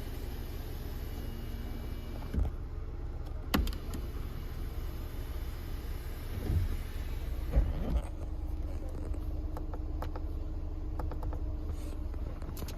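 Mazda CX-30's Skyactiv-X engine running with a steady low rumble, with a few short knocks and clicks over it.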